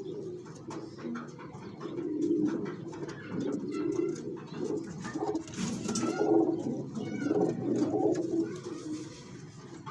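Domestic pigeons cooing over and over, low repeated coos, with a brief rustle about six seconds in.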